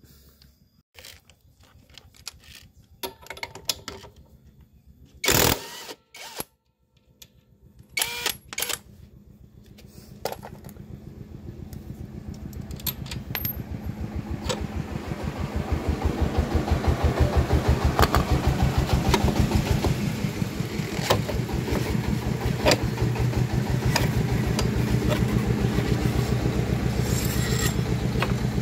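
Metal tool clinks and knocks while a scooter's rear CVT pulley is taken apart, then a motorcycle engine running, growing louder over several seconds and then holding steady and loud.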